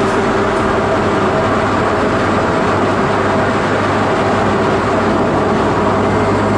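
Honda Integra Type R (DC5) driving at a steady pace, heard from inside the cabin: even road and engine noise with a steady low hum.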